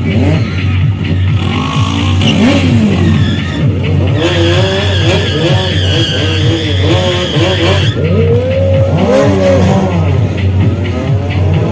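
Motorcycle engines at a drag strip revving up and down in repeated blips, several overlapping. A steady high squeal sounds from about four to eight seconds in.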